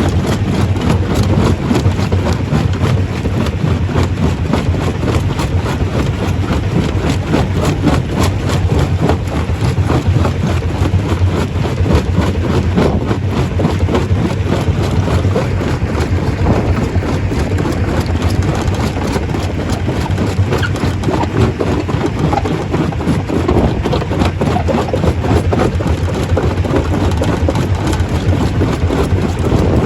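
Stone crusher running steadily: a loud, constant low machine drone overlaid with dense, continuous rattling and clattering of rock being broken.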